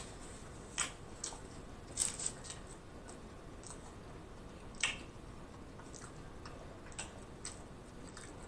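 Close-miked mouth sounds of chewing food: scattered soft, wet clicks and smacks over a faint steady hiss. The loudest come about two and five seconds in.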